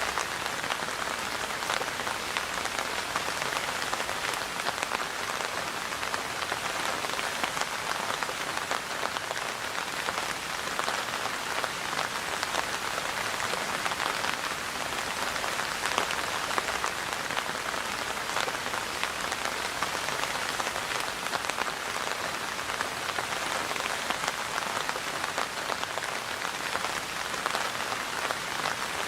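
Steady rain falling on a surface, a dense even wash of many small drop hits that holds at one level throughout.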